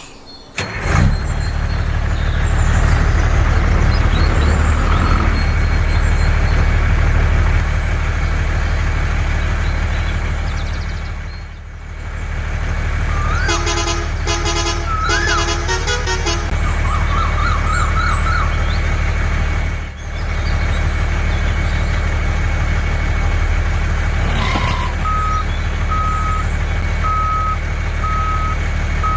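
A heavy vehicle's engine running steadily, with a pulsed horn-like toot in the middle. Near the end comes a reversing alarm beeping about once a second.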